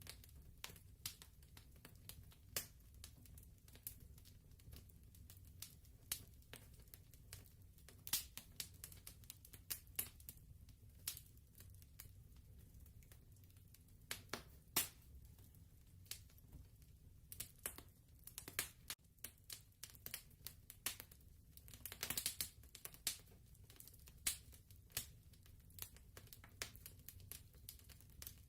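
Fireplace fire crackling softly: irregular small pops and snaps over a low steady rumble.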